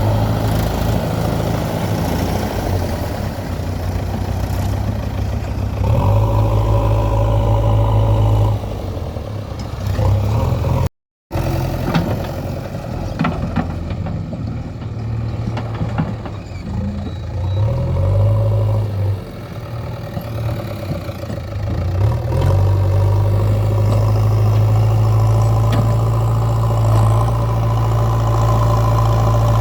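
Diesel engines of heavy earthmoving and farm machinery running steadily, their note rising and falling as the load changes, with a few light clanks. There is a brief gap of silence about eleven seconds in.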